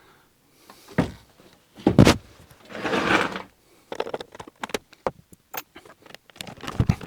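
Handling noises: two knocks about a second apart, the second the loudest, a brief rustle, then a run of small irregular clicks and taps.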